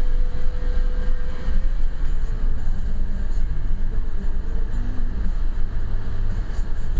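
Steady low rumble of a car being driven, with road and wind noise.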